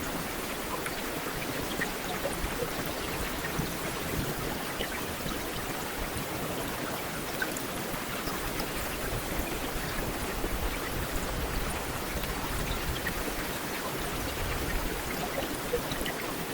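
Heavy rain falling steadily, a dense even hiss of rain with scattered individual drops ticking on hard surfaces.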